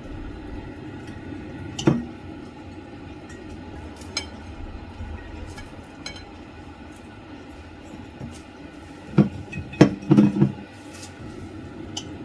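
Kitchenware knocking and clinking over a steady low hum: single knocks about two and four seconds in, then a quick cluster of louder knocks about nine to ten seconds in.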